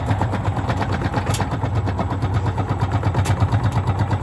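Gorenje SensoCare washing machine running with heavy bricks in the drum: a loud, low, rapidly pulsing drone, with sharp knocks about a second in and again near the end.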